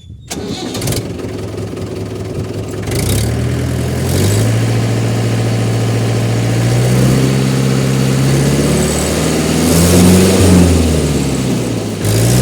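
Mahindra 475 DI tractor's four-cylinder diesel engine cranked on the electric starter, catching after about three seconds. It then runs, is revved up and drops back near the end.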